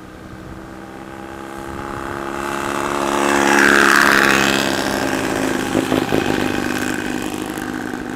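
Vintage Scott two-stroke twin motorcycle riding past, its engine growing louder to a peak about four seconds in, then fading as it moves away.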